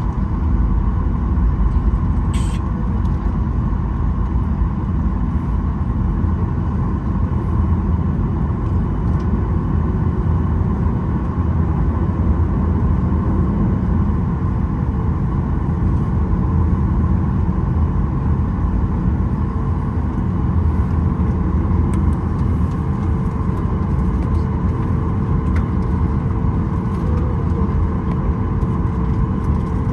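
Steady low rumble of a Boeing 737-900ER's engines and airframe, heard from inside the passenger cabin as the airliner rolls on the ground after landing. A faint steady tone comes in about halfway through.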